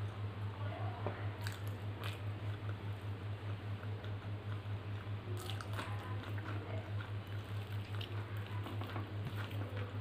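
Close-up chewing and wet squishing of rice and dal eaten by hand, with a few sharp mouth and finger clicks. Under it runs a steady low hum that pulses a few times a second.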